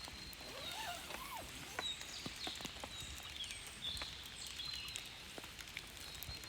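Light rain pattering, with scattered sharp drops and clicks, and a few short bird chirps over it.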